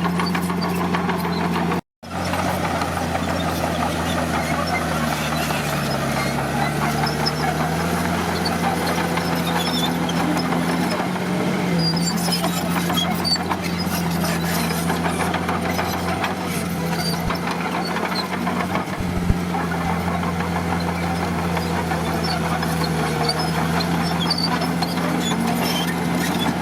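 Bulldozer's diesel engine running steadily under load, its pitch sagging and recovering a few times. The sound cuts out briefly about two seconds in.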